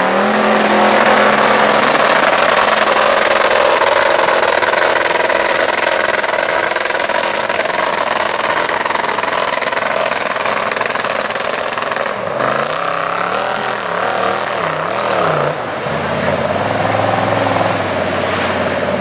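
Mud truck V8 engine run at high revs through a mud pit. The pitch climbs at the start, holds high, then wobbles up and down rapidly for a few seconds past the middle, typical of bouncing off the rev limiter.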